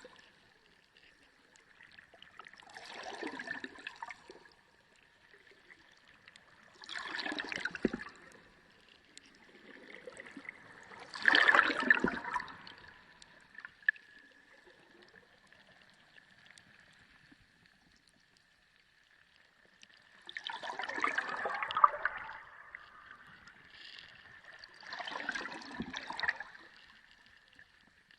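Water gurgling and sloshing in five irregular surges a few seconds apart, the loudest about a third of the way in, over a faint steady high-pitched whine.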